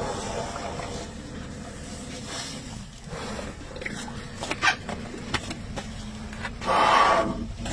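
Female Asian elephants rumbling, a low steady throaty drone, with a few sharp clicks in the middle and a short loud rush of air near the end.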